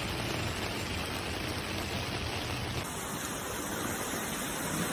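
Steady rushing of water. Its tone changes abruptly about three seconds in, where a low hum drops away.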